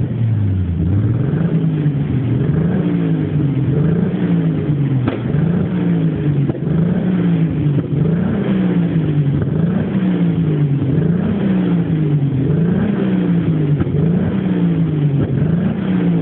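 Nissan Skyline R34's inline-six engine revved up and down over and over in a steady rhythm, about once every second and a half, with the throttle blipped to make the exhaust shoot flames. One sharp crack about five seconds in.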